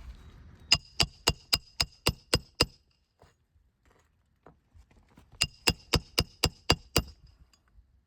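Roofing hammer striking a metal roof snake to drive a shingle nail, in two quick runs of sharp ringing metallic blows, about eight then about seven at roughly four a second, with a pause of a few seconds between.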